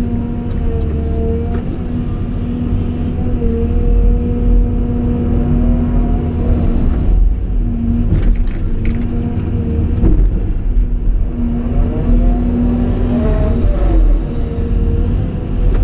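Cat 349E excavator's diesel engine running steadily, with a hydraulic whine that shifts and glides in pitch a few times as the machine works.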